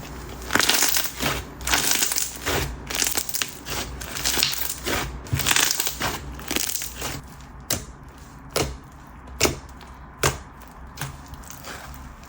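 Coated clear slime with bingsu beads being kneaded and pressed by hand, giving a crispy crunching crackle. From about seven seconds in the crackle thins to separate sharp pops and clicks.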